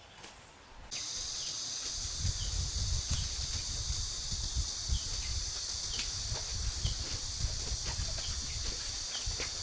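Outdoor forest ambience: a steady high hiss cuts in suddenly about a second in, with scattered sharp clicks and an uneven low rumble underneath.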